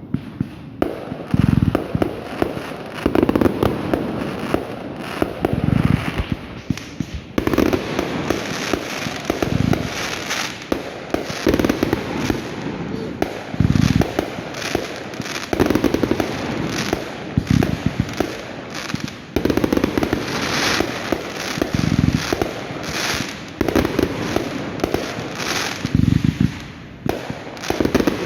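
Fireworks going off: a dense run of sharp bangs and crackling, with heavier booms every couple of seconds.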